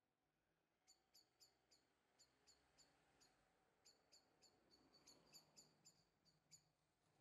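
Near silence, with a small bird chirping faintly: short high chirps repeating two to four times a second, in runs.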